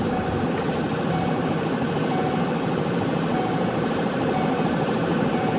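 Patrol car's engine and road noise from inside the cabin while driving, a steady rumble with a faint high steady tone over it.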